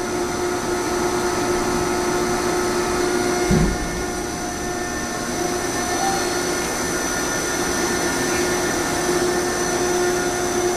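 Baler's motor running with a steady hum, with a brief low thump about three and a half seconds in.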